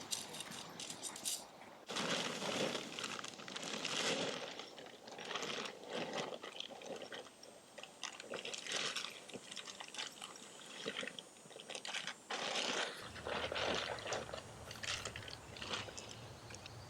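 Irregular crinkling and crunching, like something crinkly being handled, in uneven bursts.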